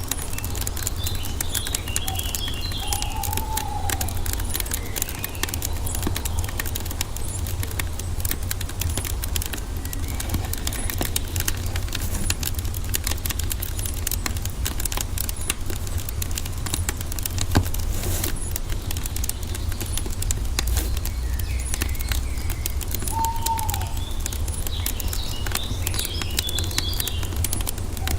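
Wood fire crackling steadily over a low rumble. Birds call now and then: short chirps near the start and end and a single arching call twice.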